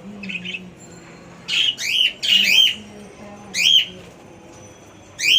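Pet birds calling: short, shrill calls that fall in pitch, a few faint ones at the start, then a quick run of loud calls about a second and a half in, another near four seconds, and one more at the end.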